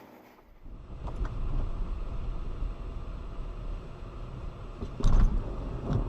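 Car driving with a steady low road rumble, and a loud thump about five seconds in, with a smaller knock near the end.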